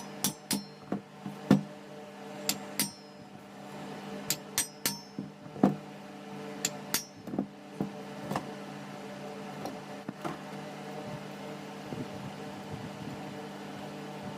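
Hand tools and metal parts clinking and tapping as a 24 V Lucas alternator is taken apart: a run of sharp metal clinks with a short ring, many in the first half and thinning out later. A table fan hums steadily underneath.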